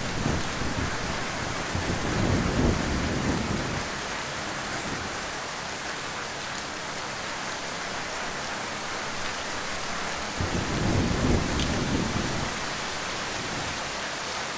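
Heavy rain falling steadily, with low rumbles of thunder swelling twice, once early and once near the end.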